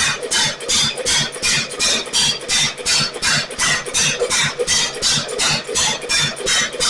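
1927 Ottawa 4-5 HP single-cylinder stationary engine running, firing in a loud, even beat of about three and a half exhaust pops a second.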